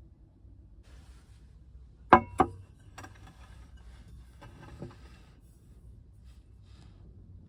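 Two sharp knocks a fraction of a second apart, followed by a lighter click and some rustling with a soft knock, over a low rumble.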